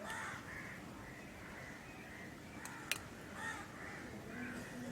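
Faint, repeated short bird calls in the background, with a single sharp click about three seconds in.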